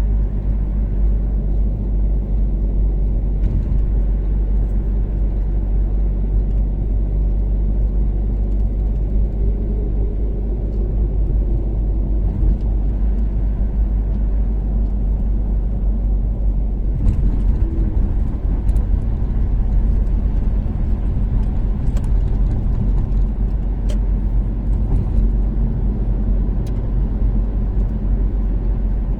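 Toyota Caldina's turbocharged 3S-GTE four-cylinder engine running steadily at cruise, under a heavy, continuous low rumble of road and tyre noise.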